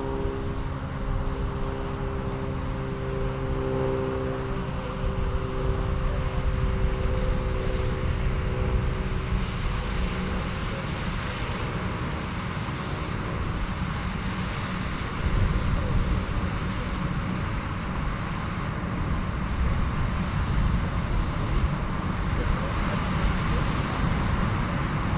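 Combine harvester running in a cornfield while harvesting, a steady mechanical drone with a low rumble underneath.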